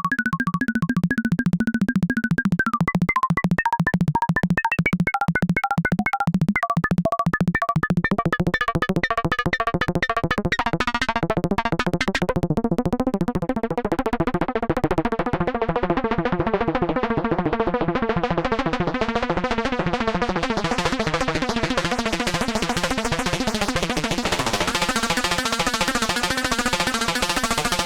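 K-ACCUMULATOR synthesizer oscillator module in feedback phase modulation (FBPM) mode, playing a very fast melody of short pinging notes over a low drone. After about eight seconds the sound thickens into a dense, buzzing texture that grows brighter toward the end.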